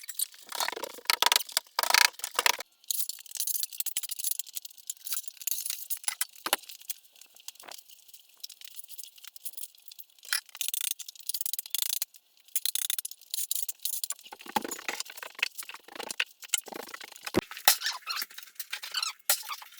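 Broken floor tile debris being cleaned up: irregular scraping and clattering of ceramic shards, with a few sharper knocks.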